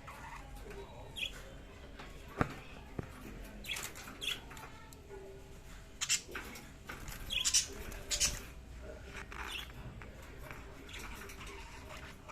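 Budgerigars chirping in short, scattered high squeaks, with one sharp click about two and a half seconds in.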